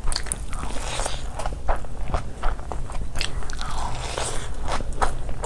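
Close-miked chewing of a hand-fed mouthful of fried rice: many short, irregular wet clicks of the mouth and lips, over a low steady hum.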